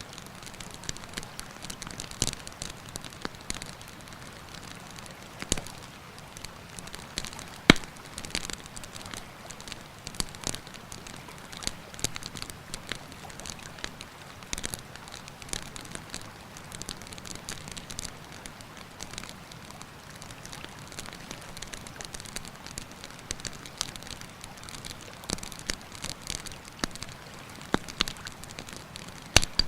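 Wood campfire crackling, with irregular sharp pops, the loudest about eight seconds in and another near the end, over a steady rushing river.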